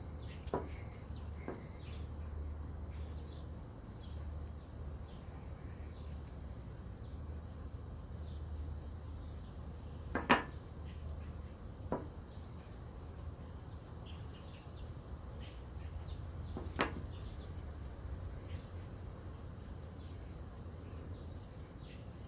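A few light knocks and taps of small hard objects handled on a work table, the loudest about ten seconds in, over a steady low hum.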